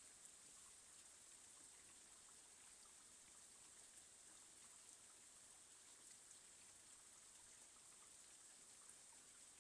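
Faint, steady rain with scattered small drop ticks.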